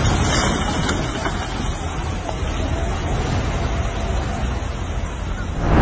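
Steady rushing noise with a deep low rumble, swelling into a louder burst at the very end.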